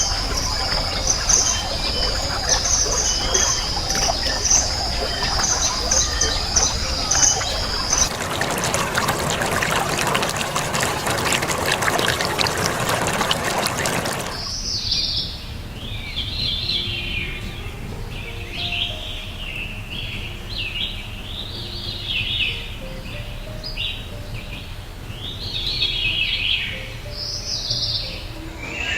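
Edited rainforest ambience: a steady high trilling with a hiss beneath it, cut after about eight seconds to a loud even hiss, then about halfway through to birds calling over and over in short falling chirps.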